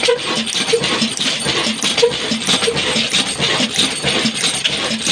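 Old Ruston diesel engine running, with steady metallic clatter and a regular heavier beat.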